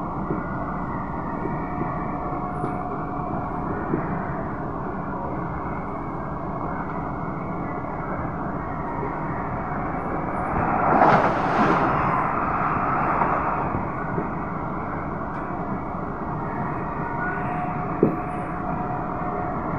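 Inside an SMRT C151B metro train running on elevated track: a steady rumble of wheels on rail, with faint steady tones above it. About eleven seconds in, the noise swells into a louder rush for two or three seconds before settling back, and a single sharp knock comes near the end.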